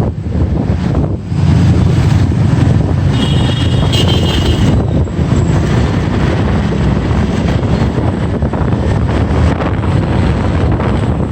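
Street traffic and wind buffeting the microphone, heard from a moving motorbike, with a steady low rumble of engines. A brief high-pitched tone sounds about three seconds in.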